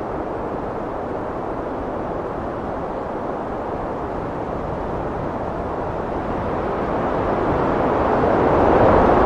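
Strong wind blowing in a steady roar, swelling louder over the last few seconds.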